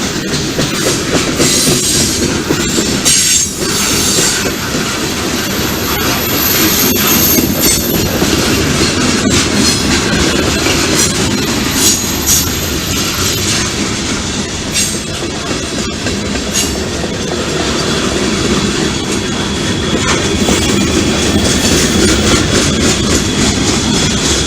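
Freight train cars rolling past in a steady loud rumble, with the clicking of wheels over rail joints. High wheel squeal comes and goes, and a thin steady squeal tone holds through the last few seconds.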